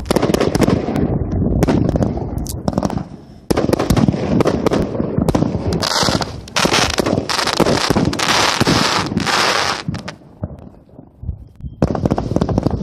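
Consumer aerial firework cake firing a rapid volley of loud bangs and bursts. There is a short lull about three and a half seconds in and a quieter stretch near the end, then the bangs start again.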